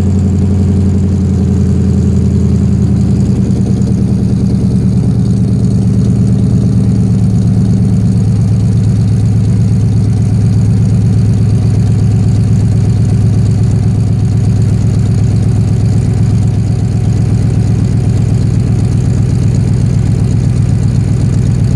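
1997 Chevrolet K1500 pickup engine idling steadily just after a cold start, heard through small headers, 2.5-inch pipe and a Magnaflow muffler. The pitch of the idle shifts a little about five to eight seconds in.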